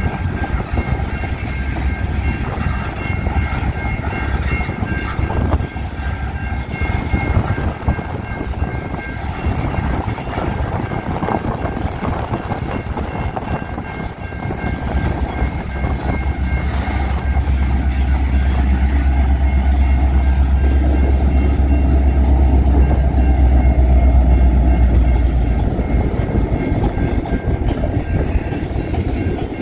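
Freight cars clattering over a grade crossing while the crossing bell dings steadily. From about 16 seconds in, an EMD SD70M-2 diesel locomotive passes close by, its two-stroke V16 engine's low drone rising loud for about ten seconds, then fading.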